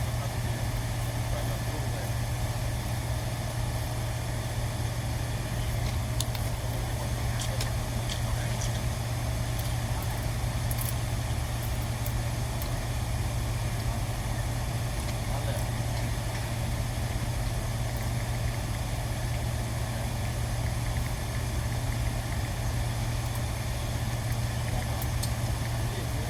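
A steady low machine hum runs throughout without change. A few faint light clicks come about a quarter of the way in and again near the end.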